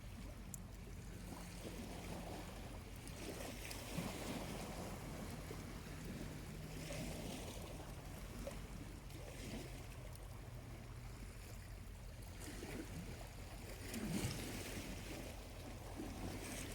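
Small waves washing onto a quiet beach, swelling and falling back every few seconds, over a faint steady low hum. A few faint crackles come from a slowly burning charcoal fire.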